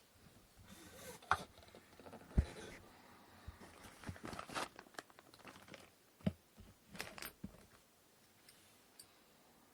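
Handling noises from wooden inkle loom parts: irregular light knocks and clicks with stretches of rustling, the loudest a dull thump about two and a half seconds in. They die away about eight seconds in.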